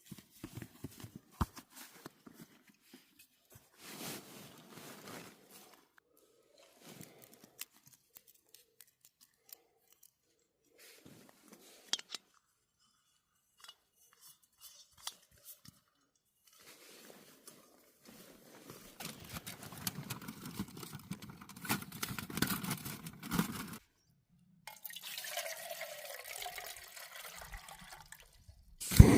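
Small clicks and rustles of camping cook gear being handled, then water poured into a pot in two longer stretches. Right at the end a small gas camping stove lights with a loud steady hiss.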